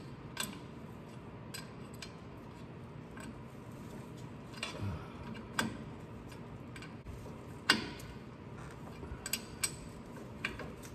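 Open-end wrench clinking on drive shaft bolts as they are tightened: scattered sharp metal clicks, a few close together, the loudest about three-quarters of the way through.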